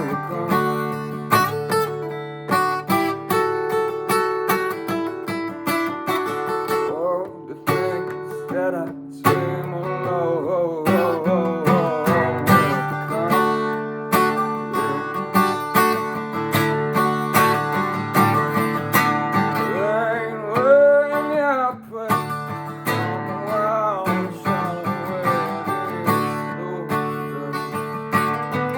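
Acoustic guitar music: chords of an original song strummed and picked, with a singing voice in places.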